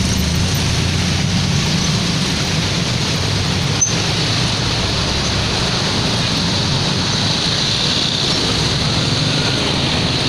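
Steady roadside traffic noise with a low engine rumble, and a single sharp click about four seconds in.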